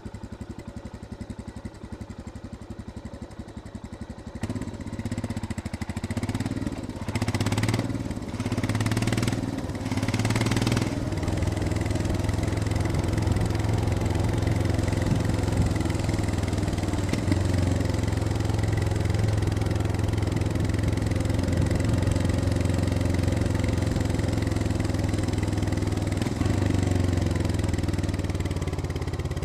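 Royal Enfield Scram 411's single-cylinder engine running at low revs on a motorcycle ride. About four seconds in it gets louder, with a few short rushes of noise over the next several seconds, then runs steadily.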